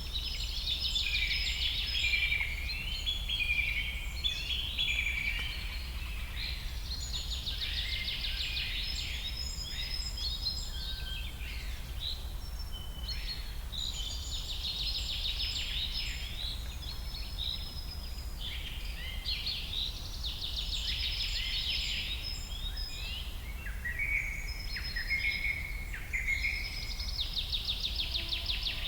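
A chorus of many birds singing and calling at once, with rapid trills and chirps overlapping throughout, over a steady low rumble.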